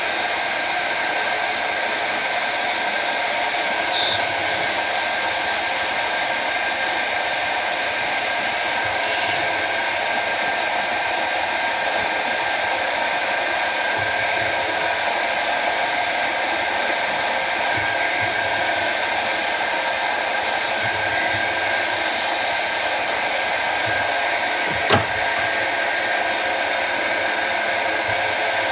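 Jet TL-25 lathe running a machining cycle, a loud steady whirring hiss, with one sharp click near the end.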